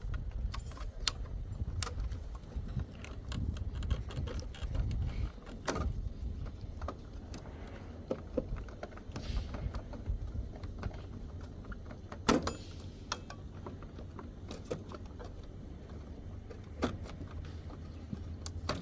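Wiring connectors being unplugged from a washing machine's control board: scattered small plastic clicks and rattles of handling, with one sharper click about twelve seconds in, over a low steady hum.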